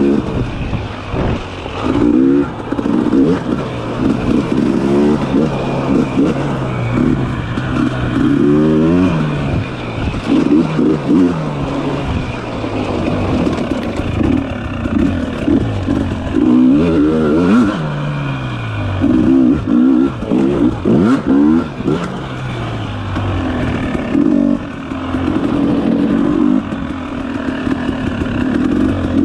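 Dirt bike engine revving up and down over and over as the throttle is worked on tight trail, its pitch climbing and dropping every second or two.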